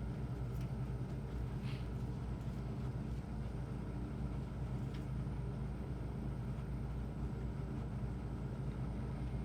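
A steady low machine hum with an even rumble, with a few faint soft clicks.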